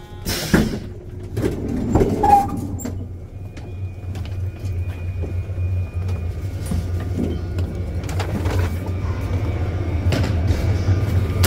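Passenger train door opening with a short hiss, followed by knocks and clatter of people and luggage stepping off. Under it the standing train gives a steady low hum.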